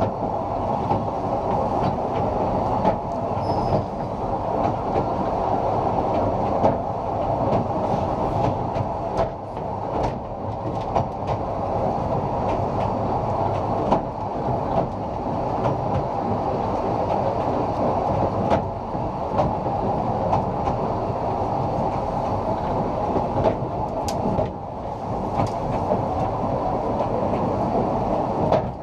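Narrow-gauge train running along the track: a steady rumble of wheels on rail, with irregular sharp clicks as the wheels pass over rail joints.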